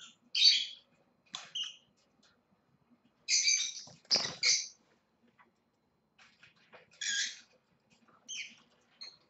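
Lovebirds giving short, shrill squawks, about six separate calls, as one is being caught by hand. A dull thud of handling about four seconds in, under the loudest pair of calls.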